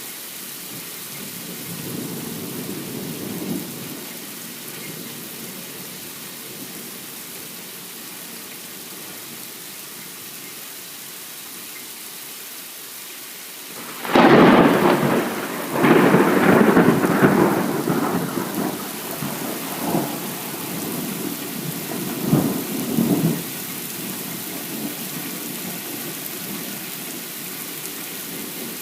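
Steady rain hissing through a thunderstorm, with a faint rumble of thunder a couple of seconds in. About halfway through a sudden, loud, close thunderclap cracks and rolls on in several bursts for about nine seconds before fading back to the rain.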